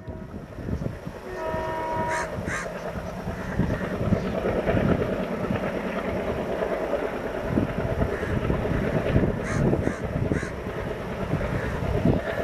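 A diesel locomotive's horn sounds briefly about a second in, then a train runs past with a steady rumble. Crows caw several times over it.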